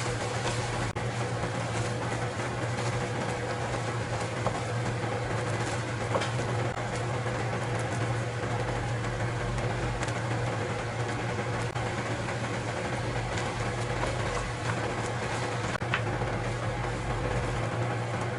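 A steady machine hum from a motor or fan running without a break, with a few faint clicks.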